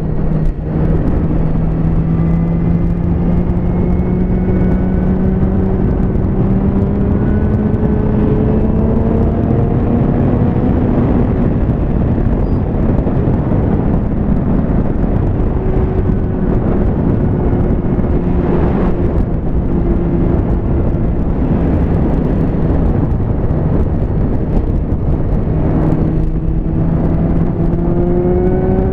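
Liter-class sport motorcycle engine running hard at road speed. Its pitch climbs slowly over the first ten seconds, eases off and holds lower, then climbs again near the end, over a constant rushing noise.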